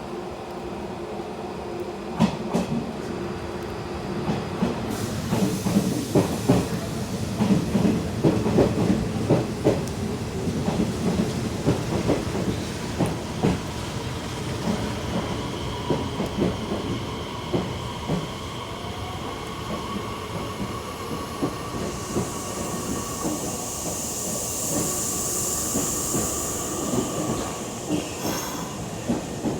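Nishitetsu 5000 series electric train moving through the station, its wheels clattering over the rail joints. In the second half a steady thin squeal comes in, and a high hissing rises for several seconds near the end.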